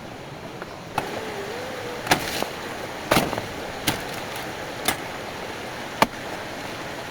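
A series of sharp, irregular knocks or clacks, about seven of them at uneven intervals, with the loudest near the end, over a steady background hiss.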